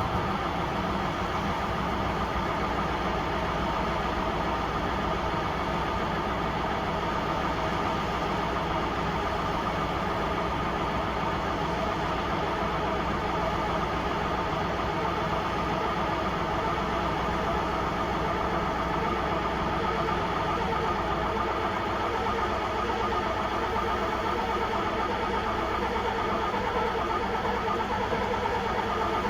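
1972 O&K V12 diesel engine running steadily just after a cold start.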